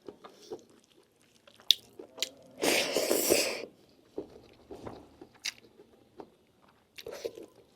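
Close-miked chewing and wet mouth clicks of someone eating lamb meat, with one louder noisy sound lasting about a second near the middle.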